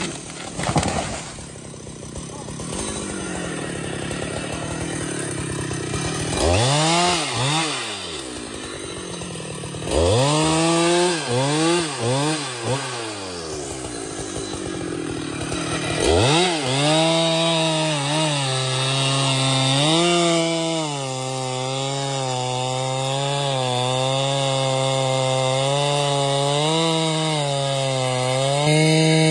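Two-stroke chainsaw revving up and down several times, then held at high revs with a slightly wavering pitch as it cuts into a tree.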